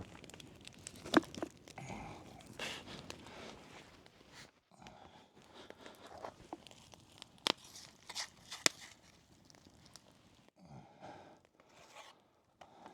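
Faint handling noises of hands packing wet clay around a whole fish: irregular rustling and crinkling, with a few sharp clicks, the loudest about a second in.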